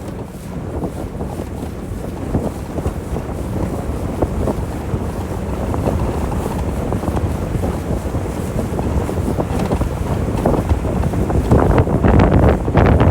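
Wind buffeting the microphone on a moving motorboat, over the low rumble of the boat and rushing water, growing steadily louder with gusty crackles near the end.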